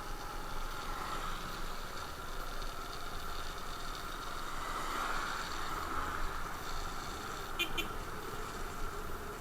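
Motorcycle engine running steadily, with two quick clicks about three-quarters of the way through.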